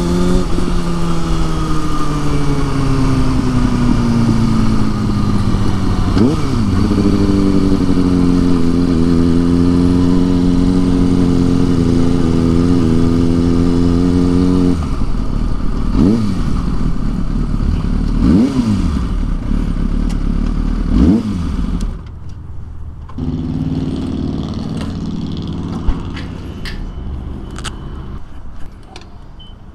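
Motorcycle engine slowing, with its note falling, then running steadily at low speed. It gives several short throttle blips over the middle of the stretch and cuts out about two-thirds of the way through. A few short clicks follow.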